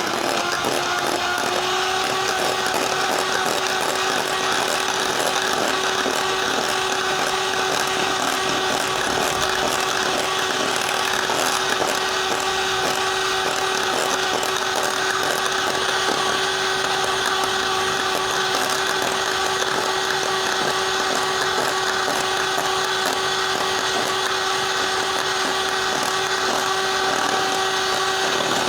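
Electric mixer whipping cream, its motor running at one steady pitch, then winding down right at the end as it is switched off. The cream is being whipped toward soft peaks.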